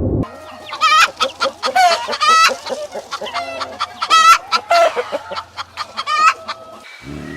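Chickens clucking: a quick run of short, pitched calls, about three a second, that stops shortly before the end.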